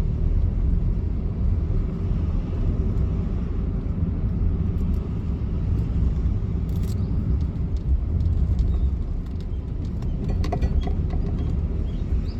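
Car driving on a road, heard from inside the cabin: a steady low rumble of tyres and engine, with a few faint short clicks in the second half.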